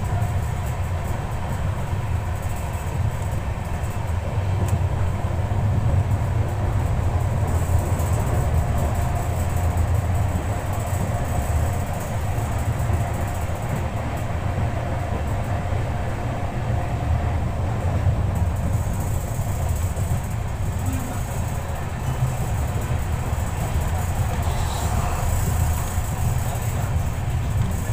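Ranchi–Howrah special express train running at speed: a steady, loud rumble of coach wheels on the rails with rushing air, heard from a coach window.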